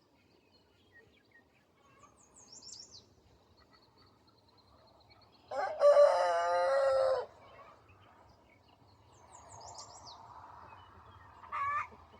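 A rooster crows once, a single call of almost two seconds in the middle. Small birds chirp faintly, and another short bird call comes near the end.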